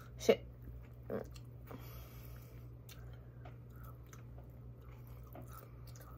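A person chewing a mouthful of chicken chimichanga, with a sharp click about a third of a second in and a softer one about a second in, over a low steady hum.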